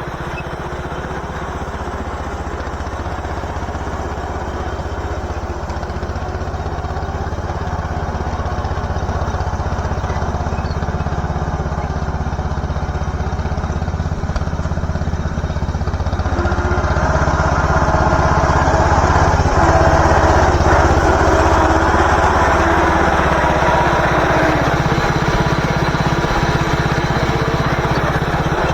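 MTD garden tractor's engine running steadily, growing louder a bit over halfway through.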